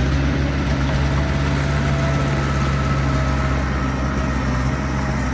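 Diesel engine of earthmoving equipment running steadily at a constant speed, its pitch and level unchanging.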